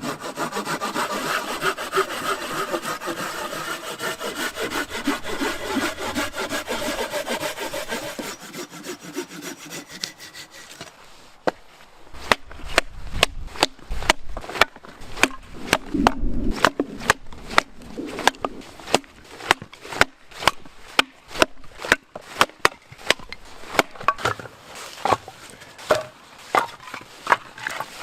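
A hand saw cutting through a piece of wood for about eight seconds. After a short pause come many sharp snaps and knocks of firewood being worked.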